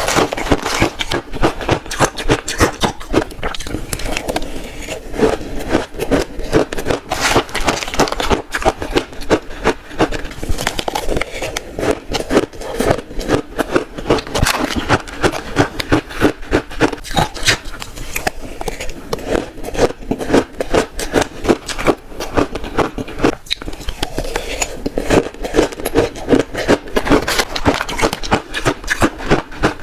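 Shaved ice being bitten and crunched in the mouth, close to the microphone: a rapid, unbroken run of crisp crunches.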